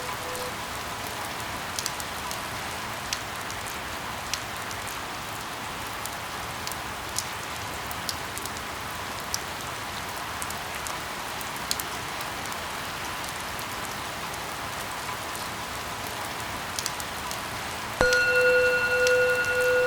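Steady rain falling, an even hiss with scattered sharp drop ticks. About eighteen seconds in, a louder steady electronic-sounding tone with higher overtones cuts in abruptly over the rain.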